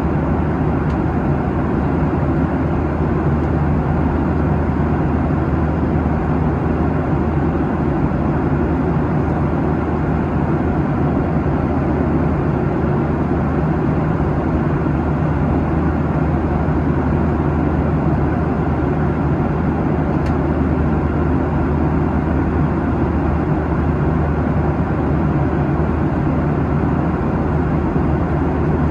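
Steady cabin noise of a Boeing 737-800 at cruise, heard from inside the cabin: the even rush of airflow over the fuselage mixed with the low drone of its CFM56-7B engines.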